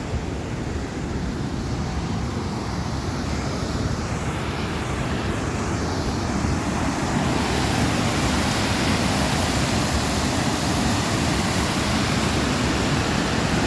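Waterfall roaring: a loud, steady rush of falling water on a phone microphone, growing louder and fuller about seven seconds in.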